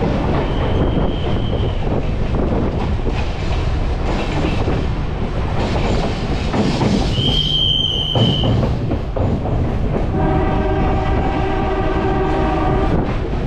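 Passenger train running at speed, heard from an open coach door: a steady rumble and clatter of wheels on the rails, with two brief high-pitched tones early and mid-way. A train horn sounds for about three seconds near the end.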